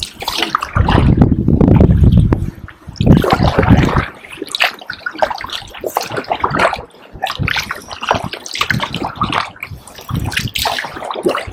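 Kayak paddle strokes: water splashing and dripping off the paddle blades in an irregular rhythm. Two bursts of low rumble come in the first four seconds.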